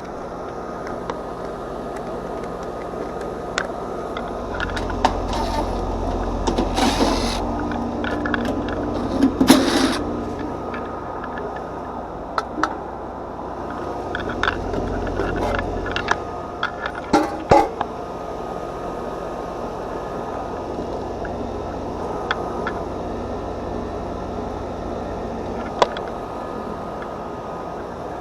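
Air-conditioner outdoor condenser unit running steadily, with scattered sharp clicks and knocks of handling.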